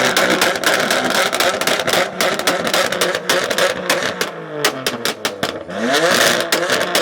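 Car engine revving hard, its pitch climbing and dropping several times, over a dense hiss studded with rapid sharp crackles.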